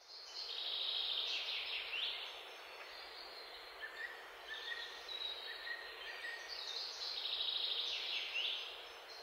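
A songbird singing: two high song phrases about six seconds apart, each ending in a falling flourish, with short high chirps in between, over a steady background hiss.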